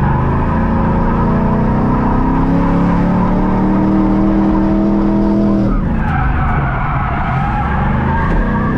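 Corvette V8 engine heard from inside the cabin, held at high revs while the tyres skid through a drift. About six seconds in the engine note drops off briefly, then builds again.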